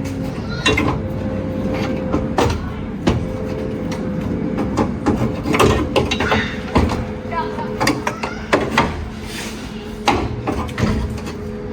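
Irregular clicks and knocks of hand tools working on metal, over a steady hum.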